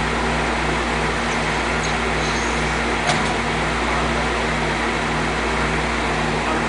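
DeLorean DMC-12's PRV V6 engine running with its electric radiator cooling fans on, making a steady rushing noise over a low hum that pulses about two and a half times a second. A single short click comes about three seconds in.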